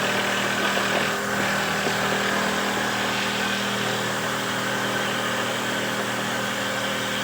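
Motor of a homemade wooden dowel-making machine running steadily at a constant speed, a continuous hum.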